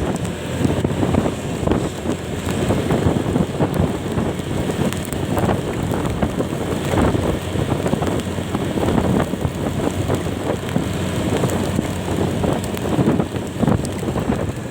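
Wind rushing over the microphone of a moving vehicle, rising and falling unevenly, over road and engine noise.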